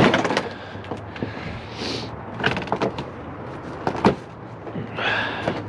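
Several sharp knocks and clatters with scraping between them, from a heavy grill and other metal being shifted around a dumpster; the loudest knock comes right at the start and others about two and a half and four seconds in.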